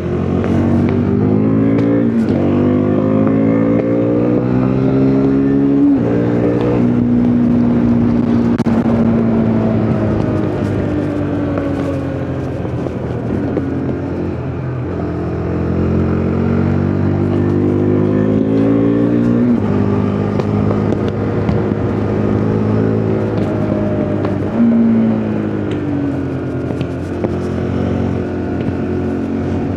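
KTM RC 390's single-cylinder engine pulling hard, its pitch rising and then dropping sharply at upshifts about two seconds, six seconds and twenty seconds in. In between, the note slides down as the bike slows, with a quick blip about twenty-four seconds in, over a steady rush of wind.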